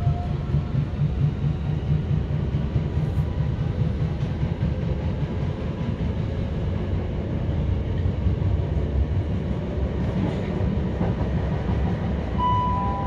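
Inside an Elizabeth line electric train gathering speed out of a station: a steady low rumble of wheels on the track with a fast pulsing beat. A short beep near the end.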